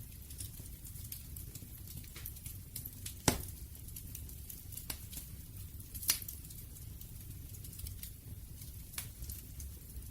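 Campfire burning with a low steady rumble and scattered sharp pops and crackles of wood, the loudest pop about three seconds in and another about six seconds in.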